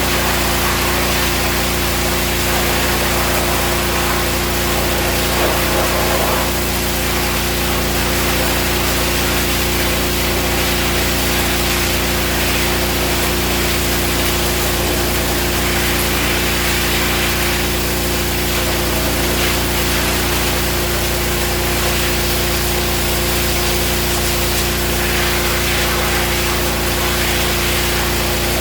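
Gas-engine pressure washer running steadily, with the hiss of its water jet rising and falling as the spray is worked over a surface.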